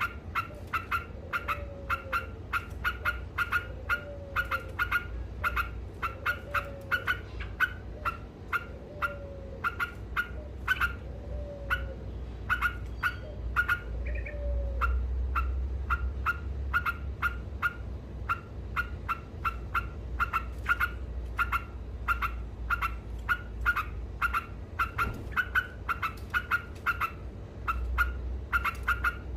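Yellow-vented bulbul (trucukan) calling in a rapid, unbroken chatter of short, sharp notes, several a second. A lower, arched note repeats about once a second through the first half, then stops.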